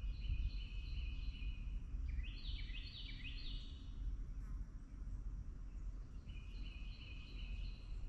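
Songbird singing three phrases of quick, stepped high notes, the middle one the loudest, over a steady low background rumble.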